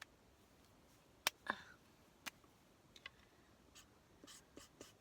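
Alcohol markers being handled and used on parchment paper: a few sharp clicks, the loudest about a second in, then light quick taps of a marker tip on the paper.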